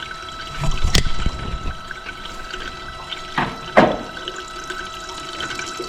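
Water running and splashing as the truck's cooling system is filled and topped off, with a faint steady whine throughout. There is a sharp click about a second in and two short knocks a little past halfway.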